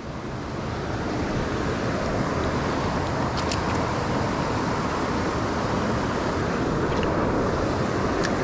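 Steady rushing of flowing river water, even and without pitch, with a few faint sharp clicks about a third of the way in and again near the end.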